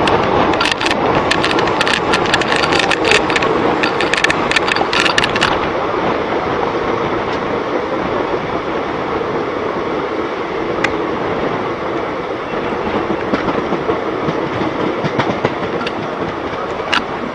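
Passenger train coach running on the rails, heard from its open doorway: wheels rumbling on the track. A quick run of clicks and rattles fills the first five seconds or so, then it settles into a steadier rumble with only an occasional click.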